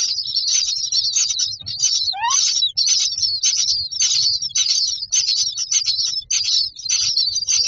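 Common myna chicks begging in the nest box: a dense, unbroken chorus of high-pitched calls that swells about twice a second, with one steeply rising note about two seconds in.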